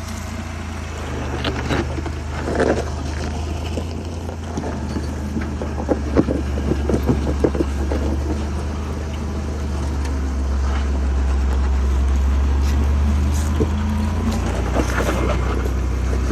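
Off-road 4x4's engine running at low revs as it crawls over rocks, with scattered crunches and knocks of tyres and chassis against rock; the engine grows louder past the middle.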